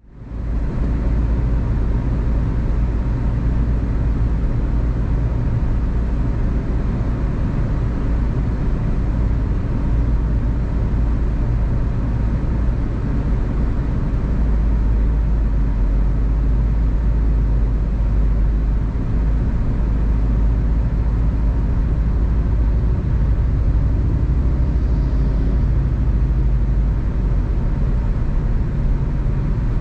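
A car driving on a road: a steady low rumble of engine and tyre noise, fading in at the very start.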